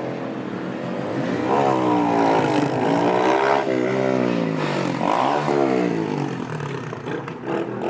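An engine revving: the pitch climbs and holds for a couple of seconds, then drops, with a second short blip of revs about five seconds in.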